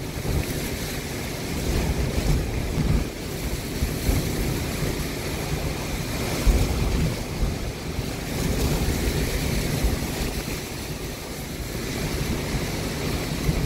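Hurricane wind buffeting the microphone with a heavy, irregular rumble over a steady rushing hiss, rising and falling in gusts.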